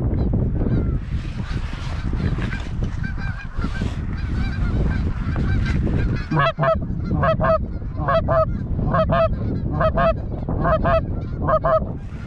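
A large flock of geese honking, a dense chatter of many calls over a steady low rumble; from about halfway, loud two-part honks repeat about every 0.8 seconds.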